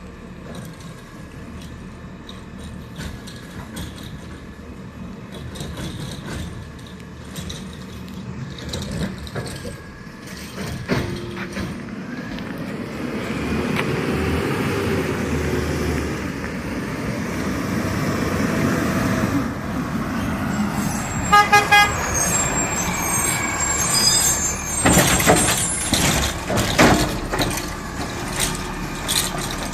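A garbage truck's engine runs and grows louder as the truck comes closer. About two-thirds of the way through, the horn gives a few quick toots, followed by several loud clatters.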